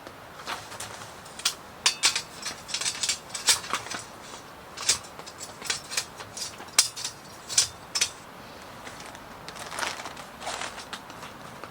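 Irregular series of sharp clicks and light clinks of small hard objects being handled, busiest in the first eight seconds and sparser near the end, over a steady faint hiss.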